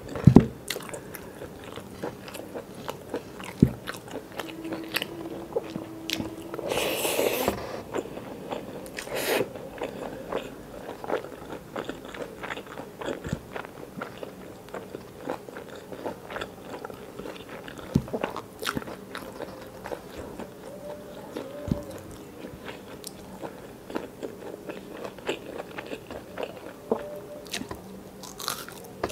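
Close-miked eating: wet chewing and mouth clicks from a handful of rice and chicken curry eaten by hand, with a louder crunchy bite about seven seconds in.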